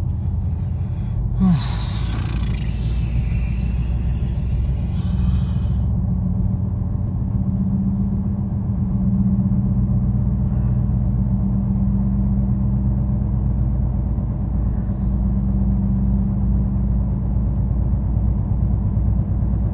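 Car cabin road and engine rumble while driving, with a steady low hum through the middle. A few seconds of hiss rises about two seconds in and cuts off around the sixth second.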